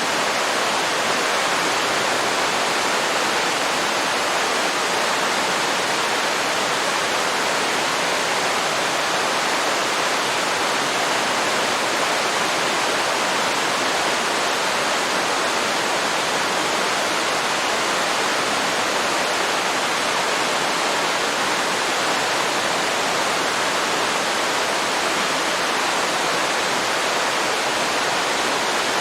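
Waterfall at the end of a river: a steady, even rush of falling water with no breaks or changes.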